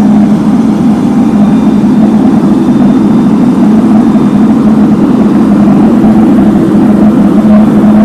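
Heavy diesel engine of road-paving machinery running steadily at constant speed, a loud unbroken drone with a strong low hum.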